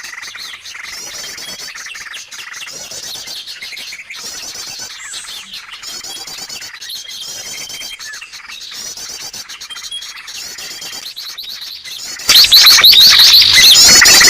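Bird-lure recording of many small birds chattering together, with fast, repeated high-pitched trills and chirps. About 12 seconds in it suddenly becomes much louder and denser.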